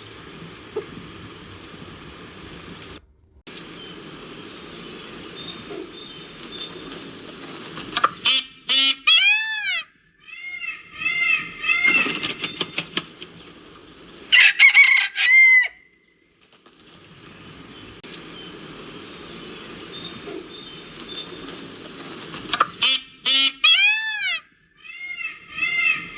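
White peacock (Indian peafowl) giving rapid series of short, loud, arching calls, about a third of the way in and again near the end, the loudest just past the middle. Between the calls, a steady high chirring of insects.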